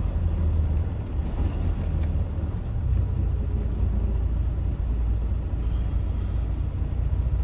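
Semi truck's diesel engine running steadily as the rig drives and turns, a low rumble heard from inside the cab.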